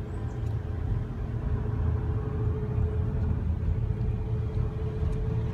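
Engine and road noise inside a moving car's cabin: a steady low rumble with a faint even hum above it.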